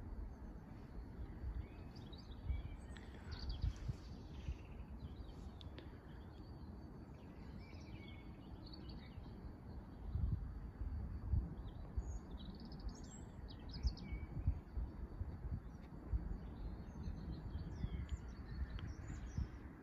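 Small birds chirping and singing in short scattered phrases over a low, uneven rumble.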